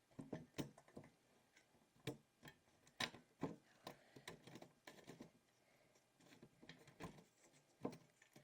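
Faint, irregular clicks and light taps of a metal bolt and washer being turned by hand into a bookcase board, the bolt threading stiffly.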